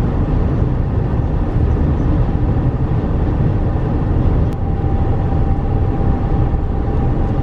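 Steady road noise of a moving car, with a faint steady hum coming in about halfway through.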